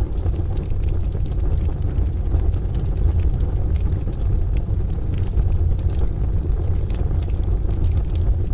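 Wood fire crackling with scattered sharp pops over a steady, deep rumble of rain and distant thunder.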